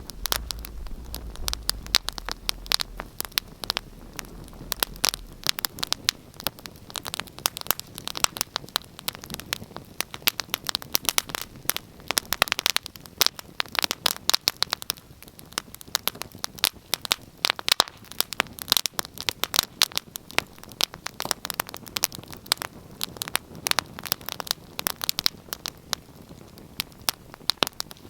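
Wood fire burning in a fireplace: dense, irregular crackling and popping over a soft hiss, with a low rumble during the first few seconds.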